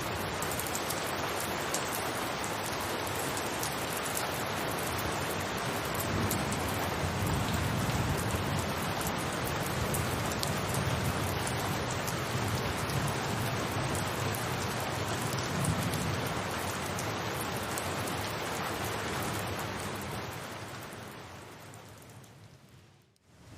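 Rain falling steadily on a rooftop, a dense patter of drops over a constant hiss, with a low rumble under it through the middle. Near the end it fades almost to silence, then comes back in.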